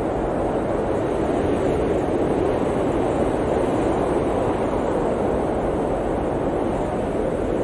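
Blizzard wind blowing in a steady, dense rush with no gusts or breaks, its sound centred in the low-middle range.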